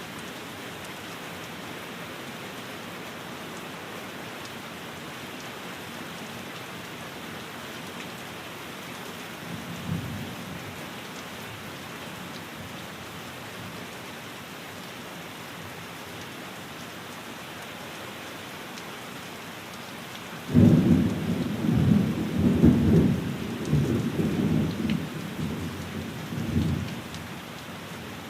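Steady rain falling, with a faint roll of thunder about ten seconds in. About twenty seconds in a loud thunderclap breaks in suddenly and rumbles on for several seconds before fading back into the rain.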